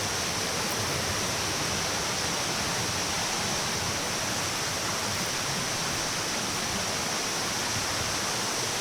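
Waterfall rushing steadily over rocks close by, an even, unbroken roar of falling water.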